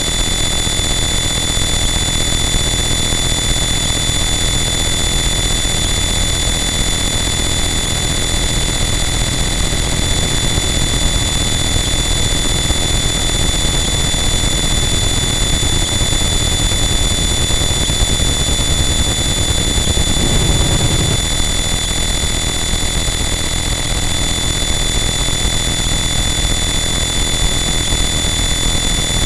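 Harsh noise wall: a loud, dense, unchanging wall of distorted static with steady high whining tones layered on top. A brief low-pitched swell rises out of it about twenty seconds in.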